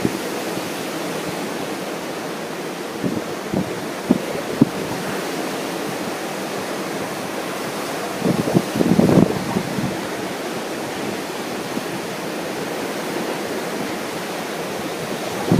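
Steady rush of ocean surf and wind, with a few short low rumbles of wind gusting on the microphone, the biggest about eight to ten seconds in.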